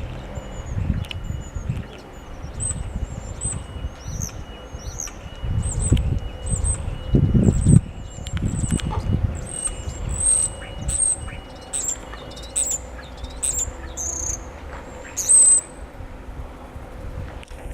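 Small birds calling with many short, high-pitched chirps, one after another. Low rumbling noise comes and goes underneath, strongest about six to eight seconds in.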